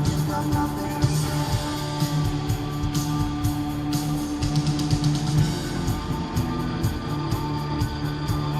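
Live rock band playing: guitars over a steady drum beat, with no singing.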